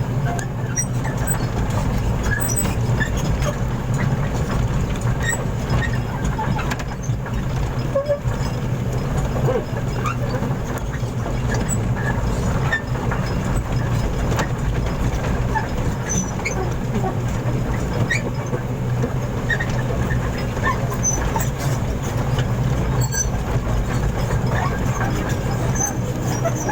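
Heavy vehicle engine running steadily at a constant speed, a deep even hum, with scattered small clicks and knocks over it.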